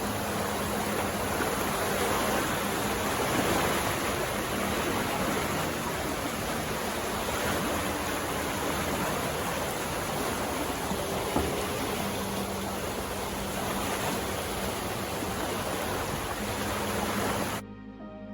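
Steady rushing noise, like running water, with faint background music underneath; near the end the rushing cuts off suddenly and only the music remains.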